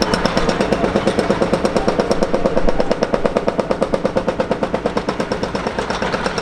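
Ilyushin Il-76 jet engines running with a fast, even pulsing throb, about ten beats a second, over a steady pitched hum.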